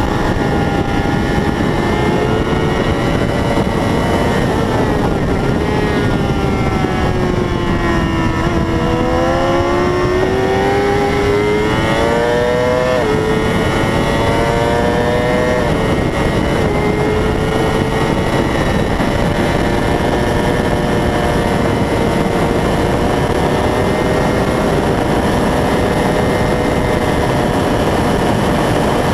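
600-class racing motorcycle engine at speed on track: the engine note falls as the bike slows, then climbs again through a couple of gear changes and settles at a steady high pitch, over a loud steady rushing noise.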